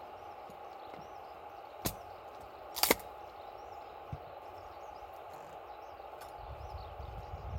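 Wood campfire crackling over a steady hiss, with a few sharp pops, the loudest about three seconds in. Small birds chirp in the background.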